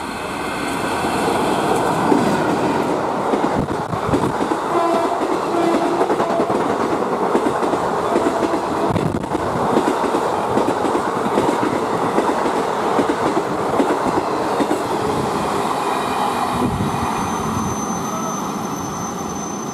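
A train running through the station at speed, its wheels clattering over the rail joints in a continuous rush that builds over the first couple of seconds and eases off near the end. A thin, steady high whine sounds over it in the last few seconds.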